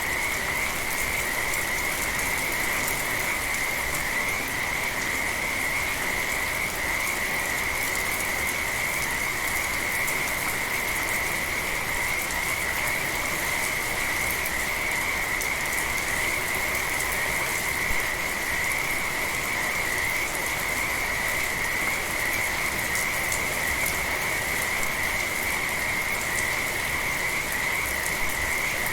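Steady rain with a dense chorus of frogs calling without pause, their calls merging into one continuous high-pitched band.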